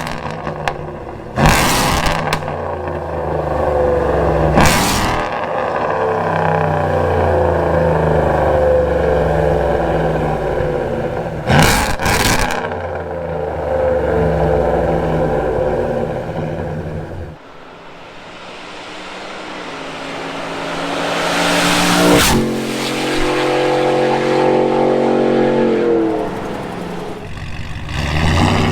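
Whipple-supercharged 5.0 V8 of a 2021 Ford F-150 on a Corsa Extreme cat-back exhaust with long-tube headers and high-flow cats, revved repeatedly at a standstill for about seventeen seconds. Then the truck passes at about 135 mph, engine and wind rising to a peak and the exhaust note dropping in pitch as it goes by. Near the end it starts pulling away again.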